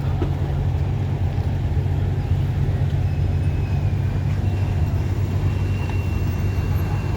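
Large vehicle's engine running steadily at a low, even hum, with a faint thin high whine joining about halfway through.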